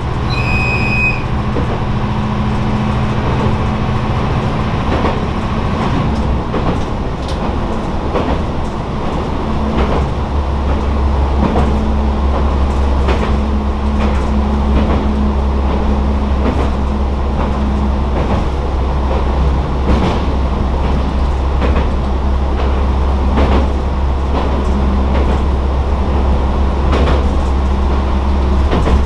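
Tarumi Railway diesel railcar running over a steel truss bridge, heard from inside the car: a steady low engine drone, with wheels clacking over the rail joints. A short high beep sounds near the start.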